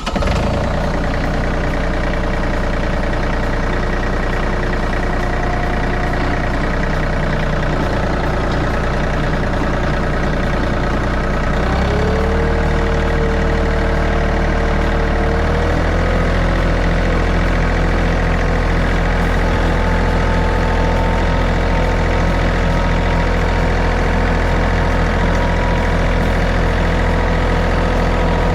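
John Deere tractor engine running steadily; about 12 seconds in its note rises as the throttle is opened, and it holds the higher speed.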